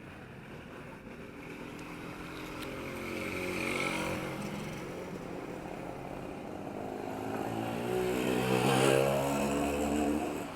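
Motor vehicles passing on a town street, their engines growing louder as each goes by: one about four seconds in, then a nearer, louder one near the end that cuts off suddenly.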